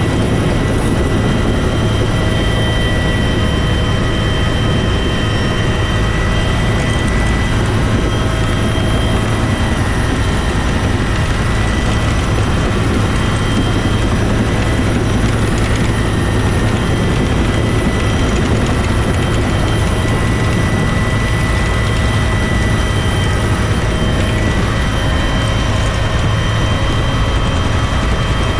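Bell UH-1 Huey helicopter running steadily, its T53 turboshaft engine and rotor giving a constant low drone with a thin, steady high whine over it.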